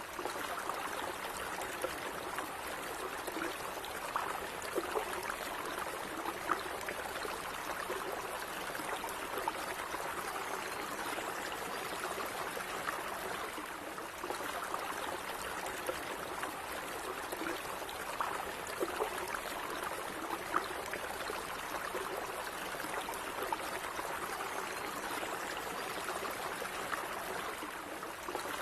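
Running water in a small stream, flowing steadily with many small gurgles and splashes.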